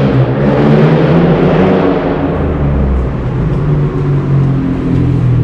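A road vehicle's engine running close by and going past, with a steady hum over traffic hiss. It is loudest about a second in and then slowly eases off.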